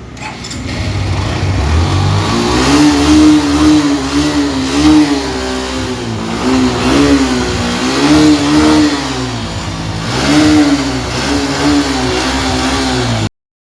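Suzuki Intruder motorcycle engine being revved again and again, its pitch climbing and dropping several times, then cut off abruptly near the end.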